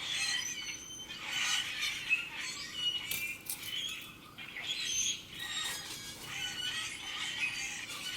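Several small songbirds chirping and singing at once: a busy run of short, high whistled notes and trills, overlapping without a break.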